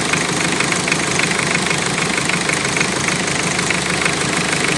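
Toyota 1C four-cylinder diesel engine idling steadily with a fast, even clatter, its idle speed just turned down a little.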